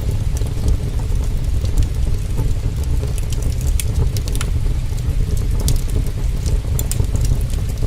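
Heavy rain as a steady, deep rumbling hiss, with a wood fire crackling over it in scattered sharp pops, several coming together about four seconds in and again near the end.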